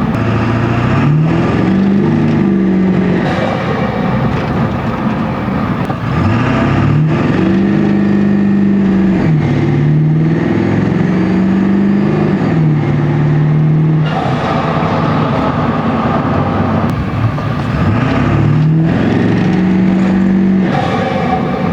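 7.3L Powerstroke V8 turbo diesel with a turbo-back side-exit exhaust, heard from inside the cab with the windows up while accelerating through the gears. The engine pitch climbs and then drops back at each shift, several times over.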